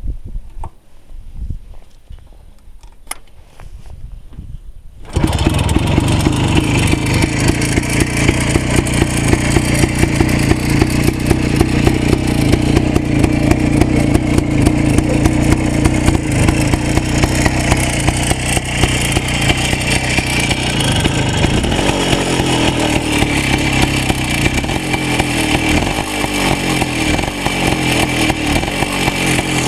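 Minsk M105 motorcycle's two-stroke single-cylinder engine, freshly rebuilt with a new piston and rings. A few low knocks come first; about five seconds in the engine comes on abruptly and runs loud and steady, its pace shifting slightly in the second half.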